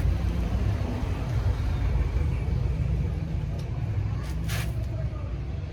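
An engine running steadily at idle, a low even hum, with a short sharp hiss-like noise about four and a half seconds in.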